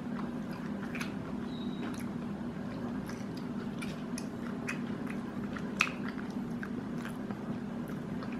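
A person chewing a mouthful of crispy chicken burger, with scattered wet mouth clicks and smacks, one sharper click about six seconds in. A steady low hum runs underneath.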